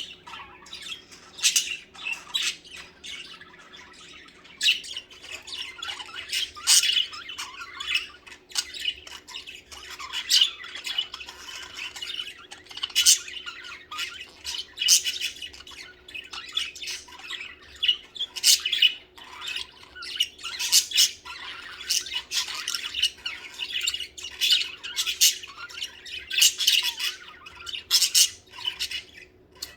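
Budgerigars chattering happily, with quick chirps and squawks that overlap and never stop.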